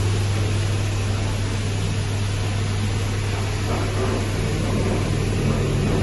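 Sawmill machinery running steadily: a constant low hum over an even mechanical noise, with no cutting strokes or changes in pitch.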